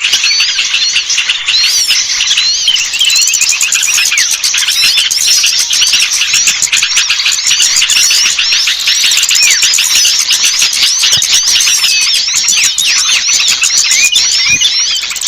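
Many small songbirds chirping and twittering at once, a dense, unbroken chorus of high squeaky notes: a bird-lure recording of small birds, played to draw wild small birds down.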